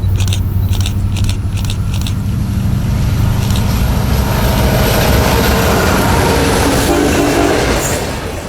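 Diesel locomotive running with a steady low drone, with a series of sharp clicks about twice a second in the first two seconds.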